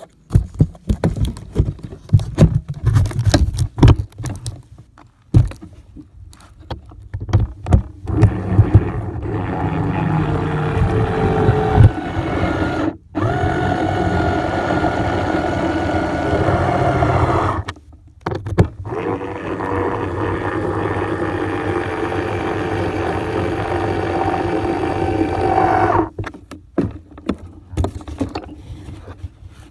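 Radio-controlled model plane's motor and propeller running in two long steady spells with a whine that shifts slightly in pitch, cutting out briefly twice. Irregular rough knocking and rushing noise before and after.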